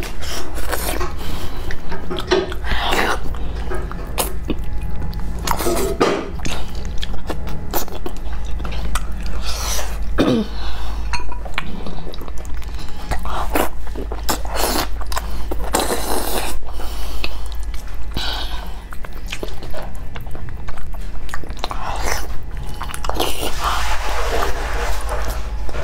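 Close-miked chewing and biting of braised trotters: irregular wet, sticky mouth sounds as skin and meat are bitten and pulled from the bone, over a steady low hum.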